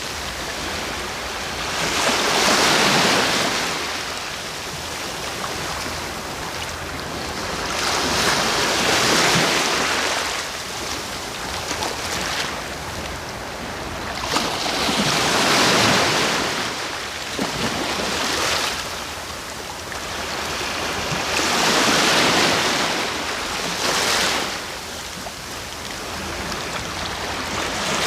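Ocean waves breaking and washing up on the shore, a swell of surf about every six seconds with the wash dying away between.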